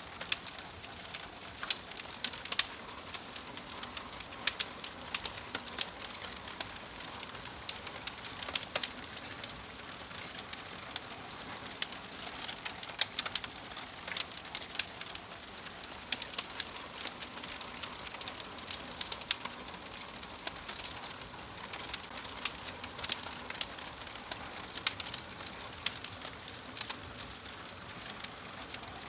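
Wood fire crackling in a fireplace: irregular sharp pops and snaps, one to three a second, over a steady soft hiss.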